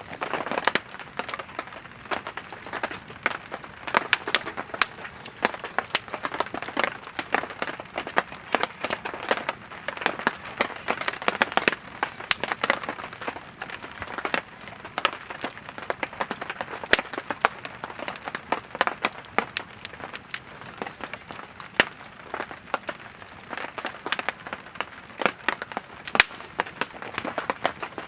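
Campfire of burning firewood crackling and popping, with sharp irregular snaps over a steady hiss of flame.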